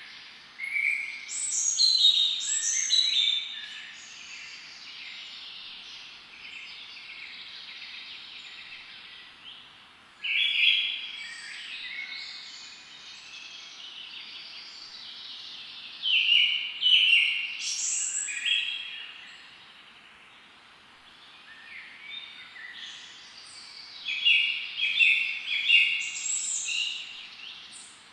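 Wild birds singing and chirping in four bursts of quick, high notes, with a steady hiss of outdoor background between the bursts.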